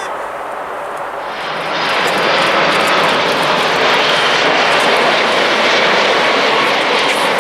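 Jet airliner passing close by. Its engine noise swells about a second and a half in, then holds loud and steady.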